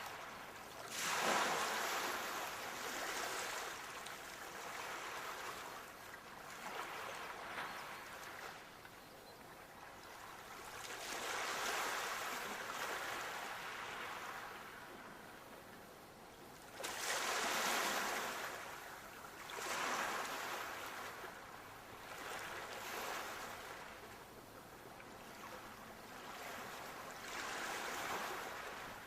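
Sea waves breaking and washing in, the surf swelling and fading in slow waves every few seconds, with a bigger surge about a second in and another around the middle.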